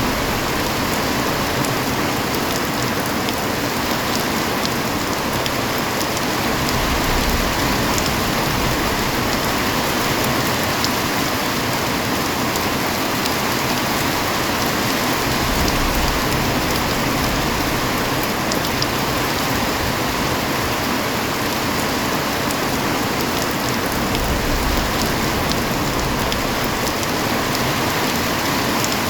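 Heavy rain falling steadily: a constant even hiss with scattered ticks of drops striking a surface.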